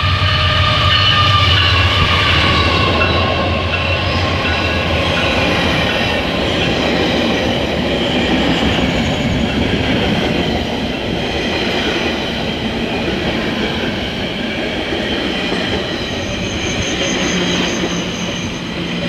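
Vale passenger train passing close by: a low steady locomotive drone for the first few seconds, then the passenger cars rolling past with continuous wheel and rail noise. A high pulsing squeal comes in near the end.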